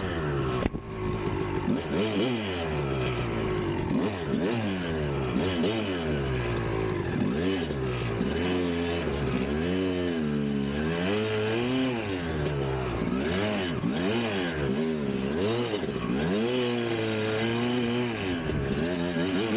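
1999 Kawasaki KX250's single-cylinder two-stroke engine revving up and down again and again as the throttle is worked, its pitch rising and falling every second or two.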